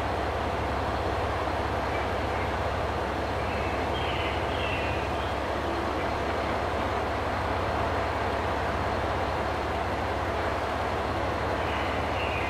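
Steady rumbling train noise with a constant low hum, and brief high squeals about four seconds in and again near the end.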